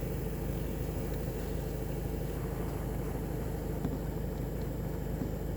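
Steady low hum of a VW Golf 7 idling, with the heater blower running while the newly replaced temperature flap motor is tested.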